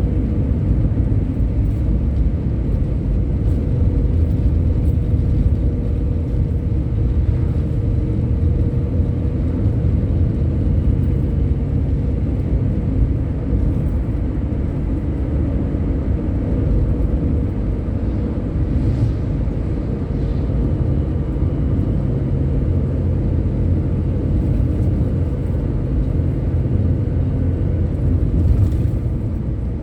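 Steady low rumble of a road vehicle under way, engine and tyre noise, with a faint steady hum.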